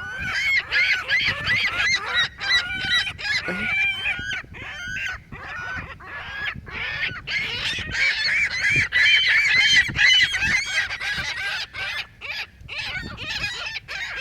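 A flock of seagulls calling over one another in a dense chorus of short, overlapping squawks, squabbling over food. The calling is thickest and loudest about eight to ten seconds in.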